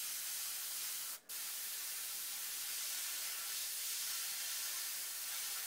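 Airbrush spraying paint, a steady high hiss of air and atomised paint, with one brief break of the airflow about a second in.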